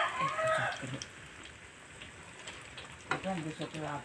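Tempe frying in hot oil in a wok: a faint, steady sizzle with small crackles. It is still frying and not yet crisp. Voices are heard in the first second and again near the end.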